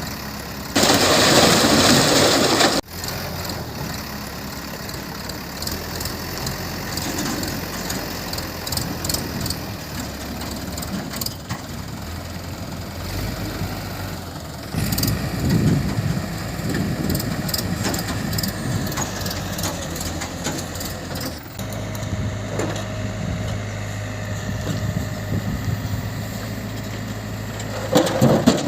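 Diesel engine of heavy farm or construction machinery running, in several clips joined by abrupt cuts, with a louder rush of noise in the first few seconds.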